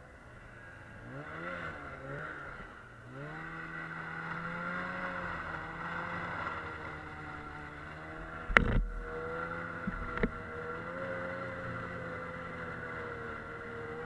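Snowmobile engine running, its pitch rising and falling a few times in the first three seconds, then holding fairly steady. A loud thump comes about eight and a half seconds in, and a smaller knock about ten seconds in.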